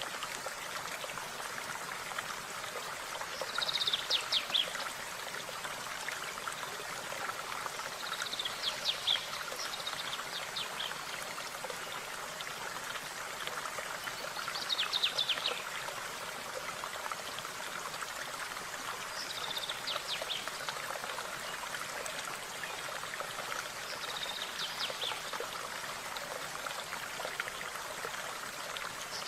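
A small stream flowing steadily, with a songbird repeating a short, high, rapid trill about every five seconds.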